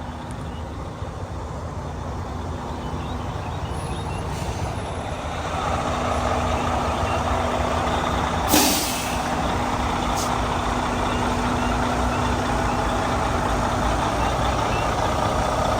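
Semi-truck diesel engine running steadily, growing louder about five seconds in, with a short, sharp air-brake hiss about eight and a half seconds in.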